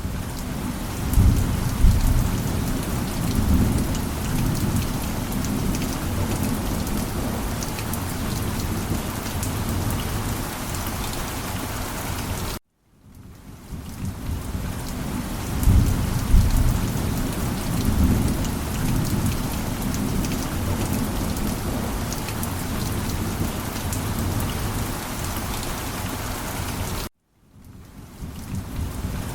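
Steady rain with a low rumble of thunder that swells about a second or two in. The sound cuts off abruptly twice, about halfway and near the end, and fades back in each time, with the same thunder rumble returning after each restart, like a short looped rain track.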